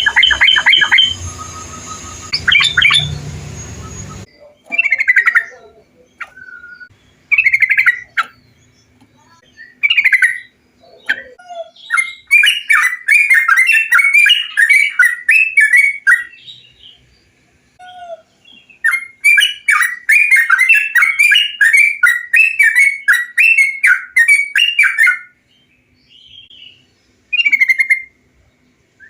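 Bulbul (trucukan) song played as a masteran recording: short bubbly phrases every few seconds, then two long runs of rapid chattering song, the first about four seconds and the second about six. The opening seconds come from a different, noisier recording that cuts off suddenly about four seconds in.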